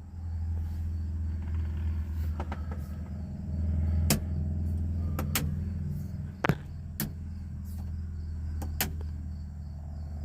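Several sharp clicks of toggle switches being flipped on a car's switch panel, over a low steady hum.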